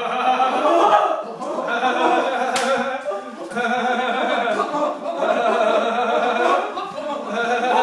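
A group of laughing kookaburras calling together: an unbroken chorus of overlapping cackling calls that rise and fall, with brief dips about three and seven seconds in.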